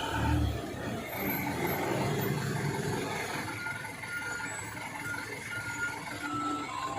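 A heavy truck's diesel engine running at low speed, with faint short high tones sounding on and off over it.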